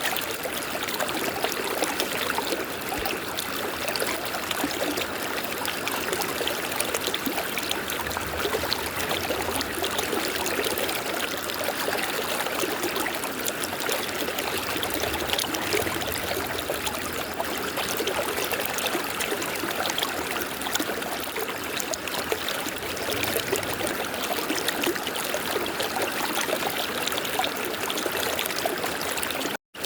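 River water rushing and trickling over rocks in a steady, even flow. The sound cuts out for an instant just before the end.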